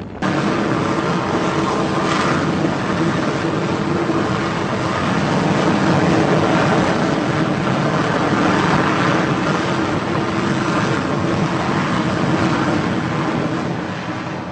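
Jet engine running: a loud, steady rushing noise with a low hum in it, cutting in abruptly at the start and easing off slightly near the end.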